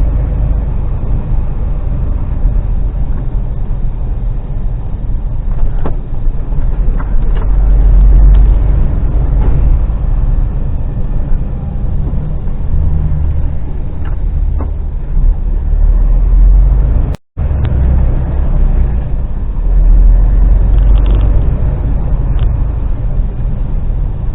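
Articulated lorry's diesel engine running, heard from inside the cab along with road noise, swelling louder a few times, with a few light rattles and clicks. The sound cuts out completely for a moment about seventeen seconds in.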